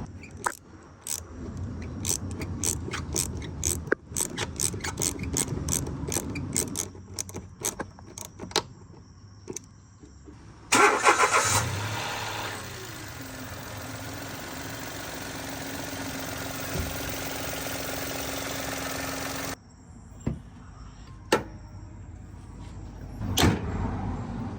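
Mitsubishi Mirage 1.2 L three-cylinder engine starting with a loud burst, then settling into a steady idle, likely the first start on new spark plugs. A series of clicks and knocks comes before the start, and the running sound cuts off suddenly near the end.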